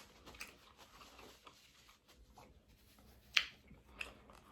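Quiet close-up eating sounds from a seafood boil mukbang: faint scattered clicks and small smacks from mouth and sauce-covered fingers, with a sharper smack about three and a half seconds in and another just before the end.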